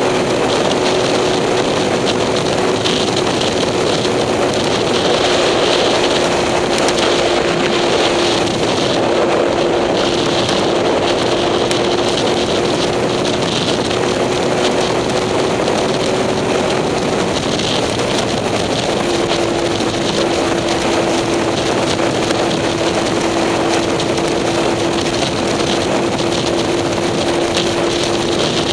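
Vehicle engine running at a steady speed under wind noise on the microphone; its steady tone breaks off about two-thirds of the way in and comes back slightly lower.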